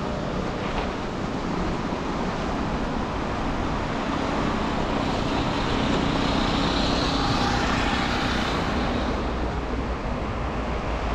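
City traffic and road noise heard from a car driving on snow-wet streets: a steady rush of tyre and engine noise that swells a little louder in the middle and then eases off.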